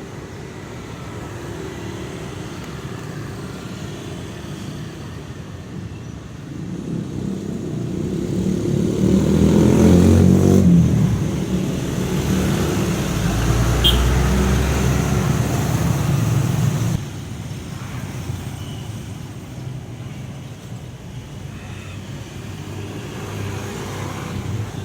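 Motor-vehicle traffic noise: a steady low rumble that swells as a vehicle passes close, then drops off abruptly about seventeen seconds in.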